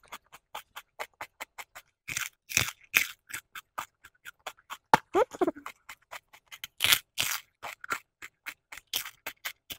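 Raw red cabbage leaves being bitten and chewed close to a clip-on microphone: a rapid run of crisp, wet crunches, about four a second.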